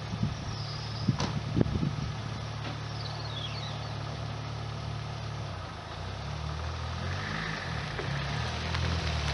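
1991 Lotus Elan's four-cylinder engine running at idle, with a few sharp clicks in the first two seconds. From about six seconds in, the engine note shifts in pitch and grows a little louder as the car is driven off.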